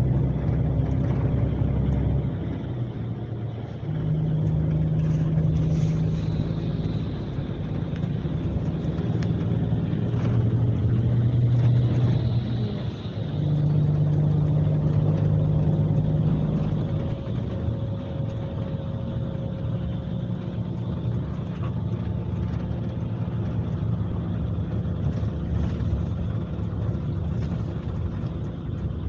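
Scania K370C coach's five-cylinder diesel engine running under way, heard on board. Its drone swells and eases in stretches of a few seconds as the load changes, then runs more evenly and a little quieter over the last part.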